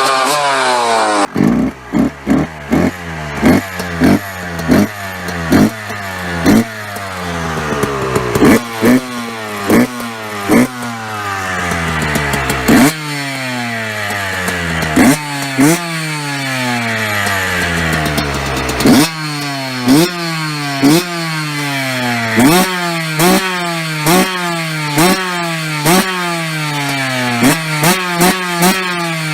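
Yamaha YZ125 single-cylinder two-stroke engine on an aftermarket exhaust, revved in repeated sharp throttle blips, the revs falling away after each one, sometimes slowly over a few seconds.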